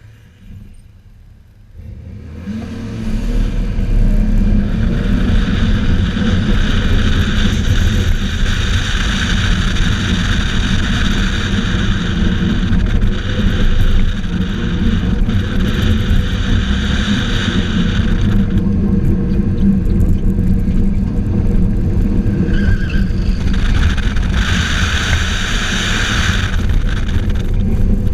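Car driven hard on an autocross course: the engine builds up over the first few seconds and then runs loud and steady, with long stretches of tire squeal through the corners.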